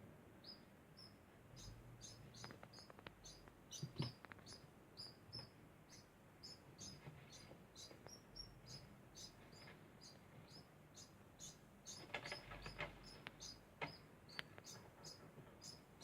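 Degu making its constant faint, high chirping, short chirps repeating about twice a second, with a little rustling and a few clicks from its movements.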